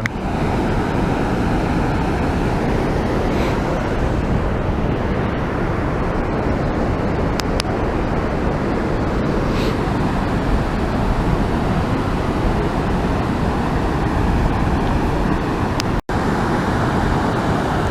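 Waterfall: a steady, loud rush of water falling into a pool, cutting out for an instant near the end.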